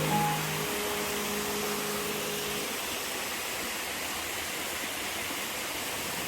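Steady rush of water falling at a waterfall, with held music tones fading out about two and a half seconds in.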